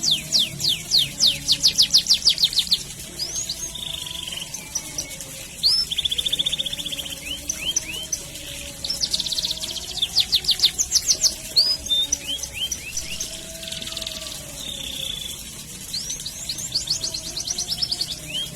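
Domestic canary singing a long song: rapid trills of fast sweeping notes, tight buzzy rolls and single upswept chirps, in several bursts of phrases with short gaps between.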